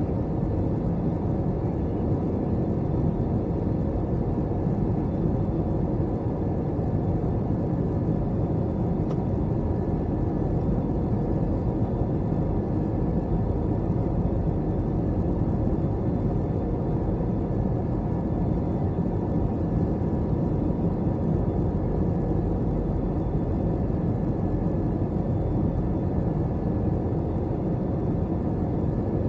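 Steady cabin noise inside an Airbus A321 airliner: a constant rush of engine and airflow noise with a faint steady hum, unchanging throughout.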